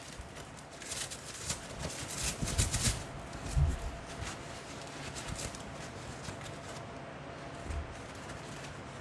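Packaging being handled and unwrapped: bursts of crinkling and rustling, loudest in the first three seconds, with a few dull knocks as items are set down.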